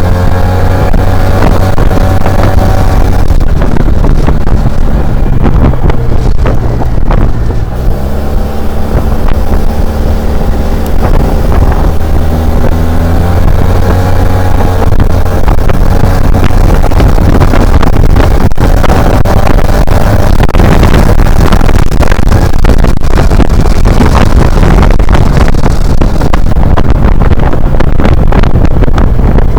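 SYM Maxsym TL 500 scooter's 465cc liquid-cooled parallel-twin engine and exhaust running under way, mixed with heavy wind buffeting on the microphone. The engine note drops briefly about seven or eight seconds in, then holds steady.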